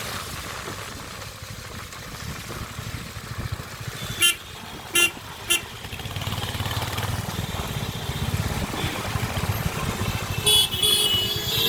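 Royal Enfield Hunter 350's single-cylinder engine running on the road, growing louder from about six seconds in. A vehicle horn toots three times in quick succession about four seconds in, and sounds again near the end.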